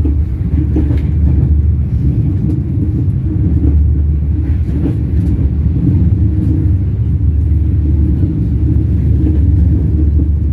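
Train wheels running on the rails: a loud, steady low rumble, with a couple of faint pairs of clicks, about a second in and again near the middle.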